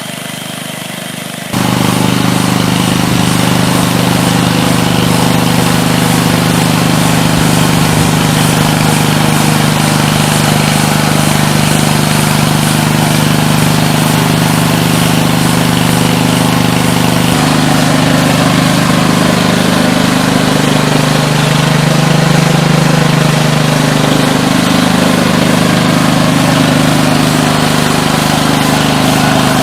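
Honda four-stroke engine of a Westermann WR870 moss brush running steadily, driving the rotating brush. The sound steps up abruptly about a second and a half in, and in the second half the engine note wavers up and down.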